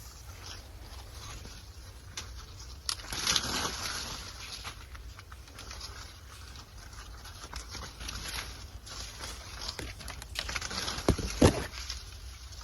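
Dry maize plants rustling and crackling, with a louder stretch of rustling about three seconds in and a sharp crack near the end, over a steady low wind rumble on the microphone.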